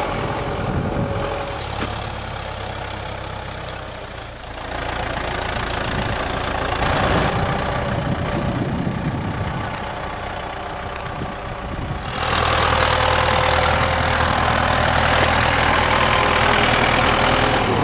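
A vehicle engine running steadily, becoming louder about twelve seconds in.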